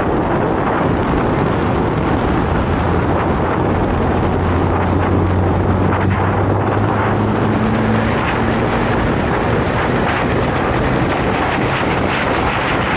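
Motorcycle riding at speed: wind rushing over the microphone covers most of the sound, with the engine's low hum coming through clearly from about three seconds in and fading again near the end.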